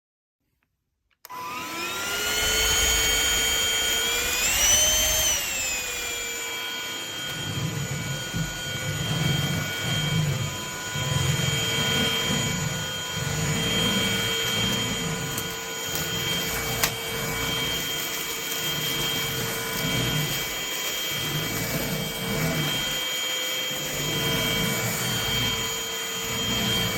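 Trucozie cordless vacuum cleaner switching on about a second in, its motor whine rising as it spins up. The pitch rises briefly once more around four to five seconds in, then the motor runs steadily with an uneven low rumble.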